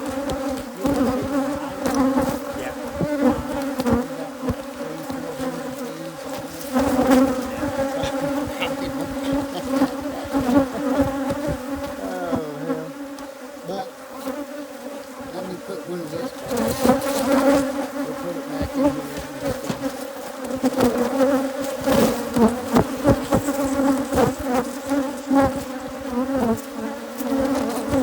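Loud, dense buzzing of a disturbed Africanized hybrid honey bee colony swarming close around the microphone: a steady hum with many short sharp crackles layered over it.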